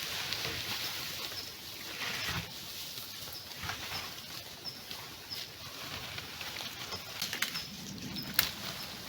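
A bird's short, high calls repeated every second or so, with scattered clicks and knocks; a sharper knock comes near the end.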